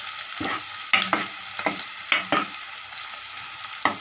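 Onions and green chillies sizzling in hot oil in a metal kadai while a metal ladle stirs them. The ladle scrapes and knocks against the pan several times.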